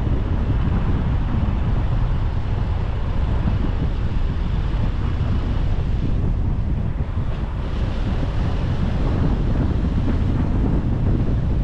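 Steady rush of wind and road noise from a moving car, with heavy wind rumble on the microphone. It eases slightly about seven seconds in.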